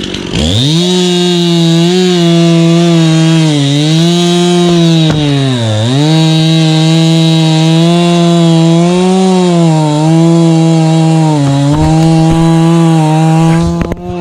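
Chainsaw revving up and cutting through a fallen tree at high speed, its pitch dipping several times as the chain bogs down under load, the deepest dip about six seconds in. It stops abruptly near the end.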